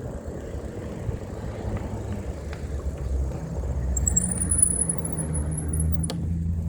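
Road noise on a wet street: a low rumble that grows louder. A thin high whine comes in about four seconds in and rises slightly, and there is one sharp click near the end.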